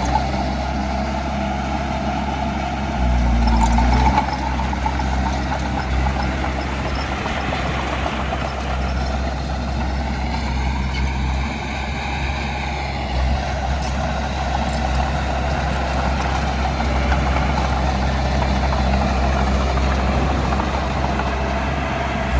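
Heavy diesel engine of earthmoving machinery running steadily, a little louder about three seconds in.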